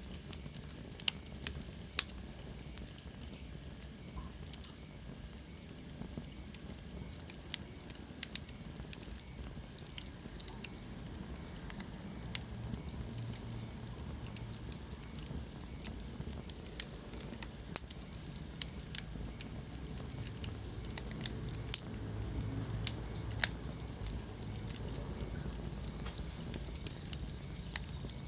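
Wood fire crackling in a fireplace: irregular sharp pops and snaps over a low, steady rumble of flame. A faint high whistle slides down in pitch in the first few seconds.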